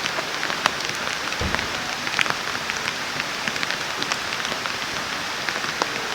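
Wood campfire crackling: a steady hiss dotted with scattered sharp pops and snaps, with a soft low thump about one and a half seconds in.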